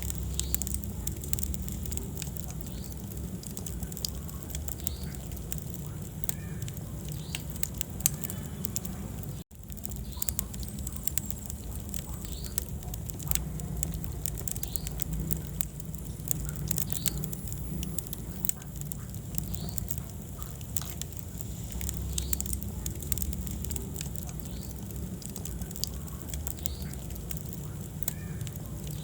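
Wood fire burning in a fireplace, with many irregular crackles and pops over a steady low rumble of the flames. There is a momentary dropout about a third of the way through.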